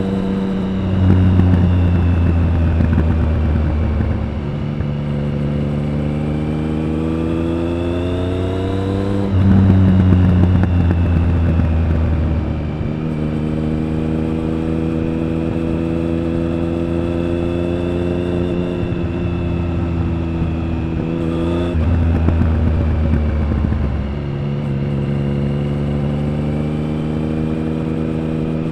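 Triumph Speed Triple 1050's inline three-cylinder engine and exhaust under way, the pitch climbing slowly as it pulls. The note drops sharply at upshifts about nine and twenty-one seconds in, each followed by a louder, deeper surge as the throttle opens again.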